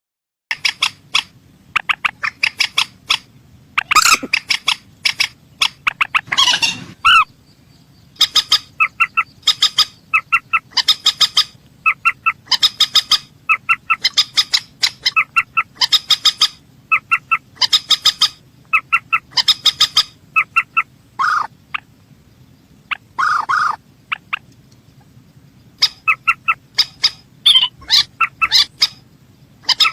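Mandar sawah, a rail, calling: bursts of rapid ticking notes about a second long, repeated over and over with short gaps, broken by a few longer, harsher squawks.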